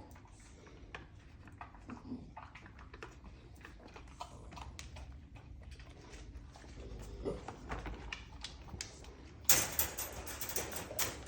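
Dogs' claws clicking and pattering on a hard floor as the dogs move about, with a louder rattling clatter about nine and a half seconds in.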